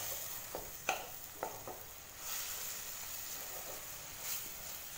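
Okra, shallots and ground tomato sizzling in oil in a kadai while being stirred, with a steady hiss of frying. The spatula scrapes and knocks against the pan a few times in the first two seconds.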